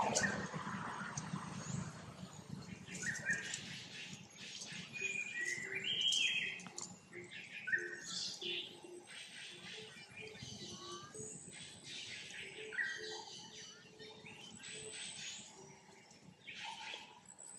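Birds chirping, short high chirps coming in ones and twos all through, with a soft run of short low notes in the middle.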